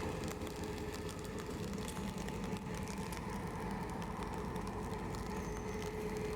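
GM G22CU diesel-electric locomotive running steadily: a low engine drone with a steady tone held above it.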